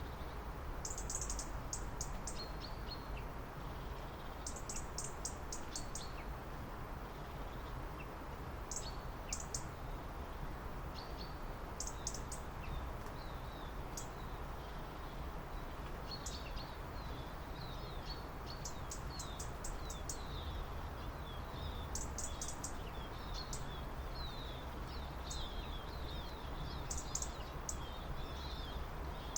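Small birds chirping in short rapid series of high notes, recurring every few seconds and busier near the end, over a steady low background rumble.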